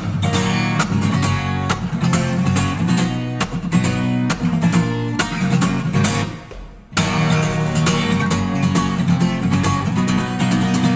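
Acoustic guitar strummed in quick, rhythmic chord strokes, playing the song's instrumental part. About six seconds in the strumming breaks off for under a second, then starts again at full level.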